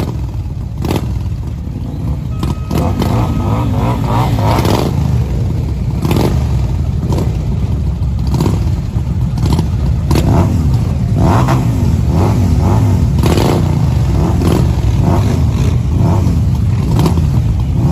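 Many motorcycle engines running together as a dense, loud rumble, with short sharp revs and bangs coming every second or so.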